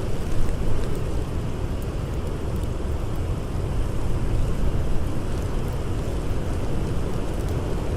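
Blizzard wind blowing as a steady low rumble, with faint scattered crackles from a campfire.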